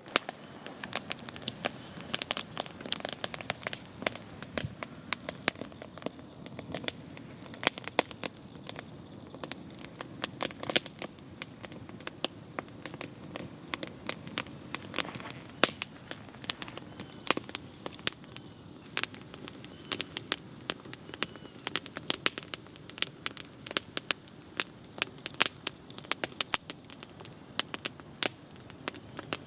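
Wood campfire crackling, with frequent irregular sharp pops over a steady low hiss of burning.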